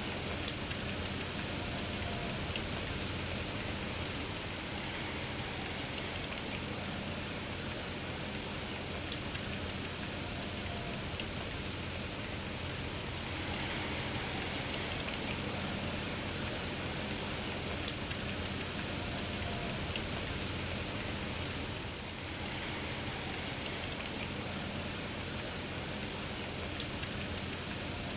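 Steady rain falling. A single sharp tap stands out four times, about every nine seconds.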